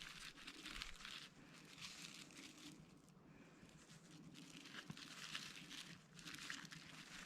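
Faint rustling and crackling of thin twigs being bent and woven by hand into a small wreath.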